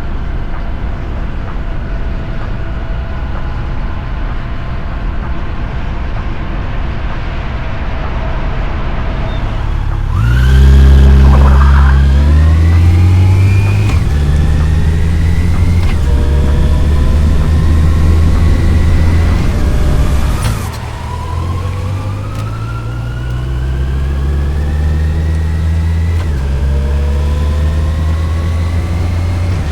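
Yamaha FJR1300's inline-four engine cruising steadily, then opening up hard about a third of the way in: the revs climb, drop back with each upshift and climb again, three or four times, with wind rush throughout.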